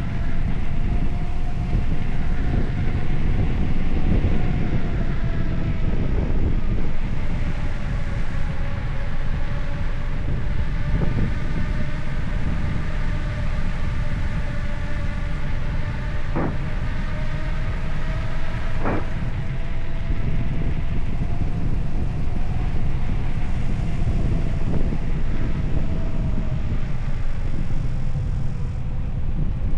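Bicycle riding on a mountain road: a steady low rush of wind and road noise, with a thin whine that wavers slowly in pitch. Two sharp clicks come a little past halfway, a couple of seconds apart.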